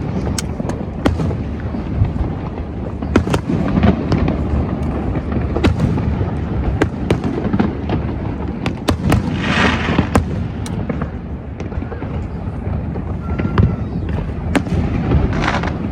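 Fireworks display: many sharp bangs and deeper booms over a continuous low rumble, with a burst of dense crackling about nine seconds in and another near the end.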